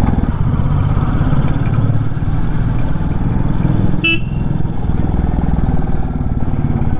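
Royal Enfield Classic 350's single-cylinder engine running steadily while riding at low speed, with a short horn toot about four seconds in.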